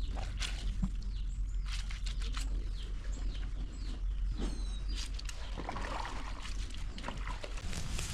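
Outdoor rural ambience: birds chirping faintly now and then over a steady low rumble, with scattered short clicks and knocks.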